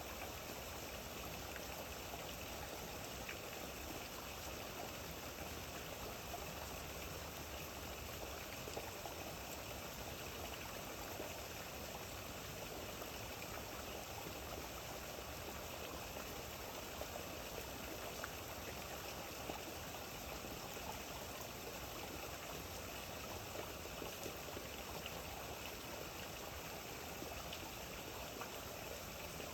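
Steady rain falling, an even wash of water noise with scattered small drop ticks.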